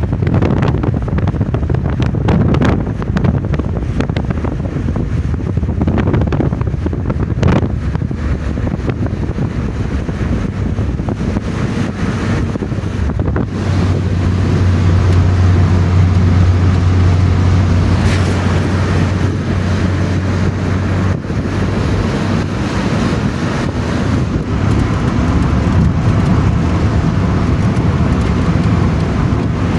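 The Neelam River's fast-flowing water rushing in a loud, steady roar, with wind buffeting the microphone. A low steady hum joins in for several seconds midway.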